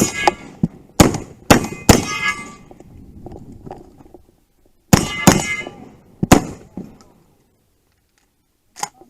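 Gunshots, each followed by the ring of a hit steel target: a quick string of four shots, a pause of about three seconds, then three more, with one faint clank near the end.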